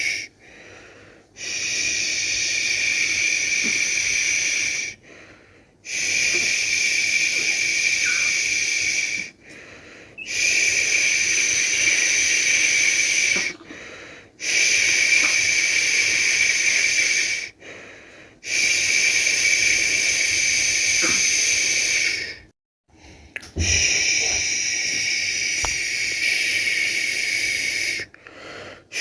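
A person making long 'shhh' shushing sounds to soothe a baby to sleep, about six shushes in a row, each held for three to five seconds with a short breath between them.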